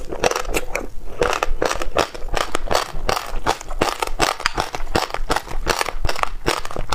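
Close-up chewing of passionfruit seeds with yogurt and red dragon fruit: the seeds crunch and crackle densely and rapidly.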